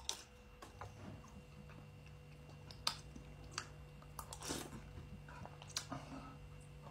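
Quiet chewing of a spoonful of Weetabix cereal, with a few sharp clicks of a metal spoon against teeth and a ceramic bowl. A faint steady hum lies beneath.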